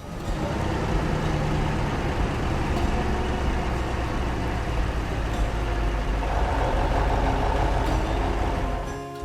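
Heavy engine running steadily with a low rumble, like a tractor's engine under way.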